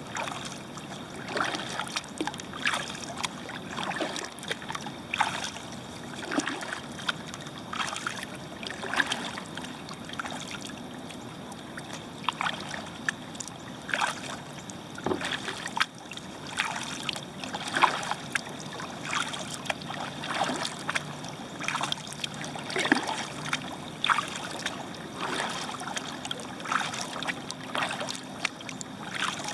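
Kayak paddle strokes: the blades dip into flat water and drip, making short splashes about once a second, with a steady trickle of water in between.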